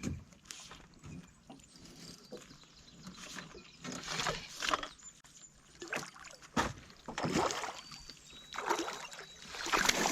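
Water sloshing and splashing against a small fishing boat, with irregular bursts of splash and a couple of sharp knocks on the hull.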